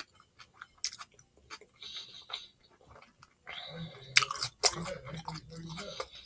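Close-up chewing of a Philly cheesesteak sub on a soft roll: wet mouth clicks and smacking, with a couple of louder crunchy bites a little past the middle. From about halfway a low hum through a full mouth runs under the chewing until near the end.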